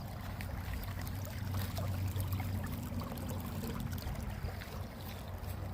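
Creek water flowing steadily, an even rushing noise that stays the same throughout.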